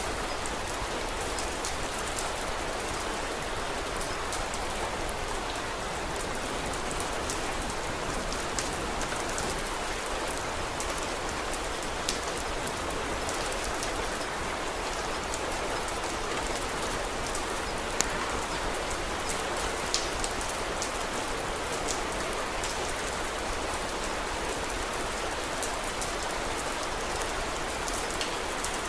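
Steady rain falling, with scattered sharp crackles and pops from a wood fire, three of them louder than the rest.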